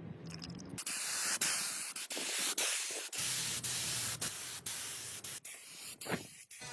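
A steady hissing spray that starts about a second in, broken by several short gaps, and thins out near the end.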